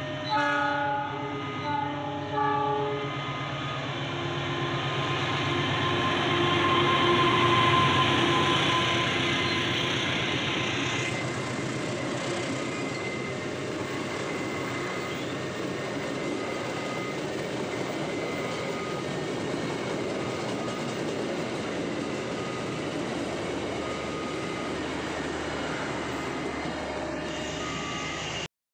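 A train sounding its horn in two short blasts, then passing with a long rumble of wheels on the rails. The rumble is loudest about eight seconds in and then settles to a steady, softer run.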